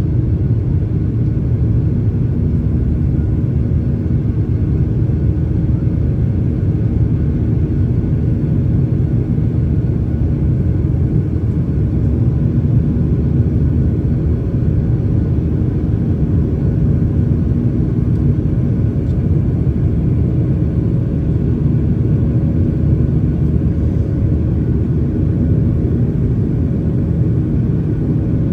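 Cabin noise aboard a Boeing 737 airliner: a steady low rumble of jet engines and rushing air, with a few faint steady tones above it and no change in level.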